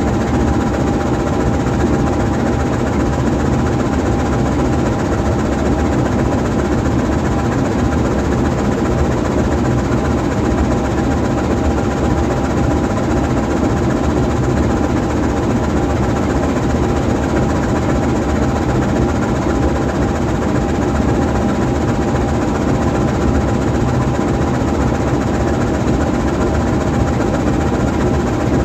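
GE U20C diesel-electric locomotive standing and idling, its diesel engine running steadily.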